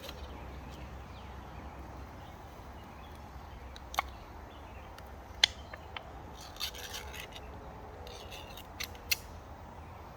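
A few scattered sharp clicks and light knocks from handling metal cookware and a cutting board, over a steady background hiss.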